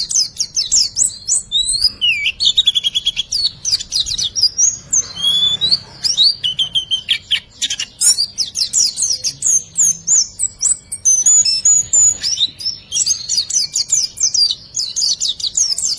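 Pleci (white-eye) song: a fast, continuous string of high chirps, twitters and sweeping notes with hardly a pause, played as a masteran training recording.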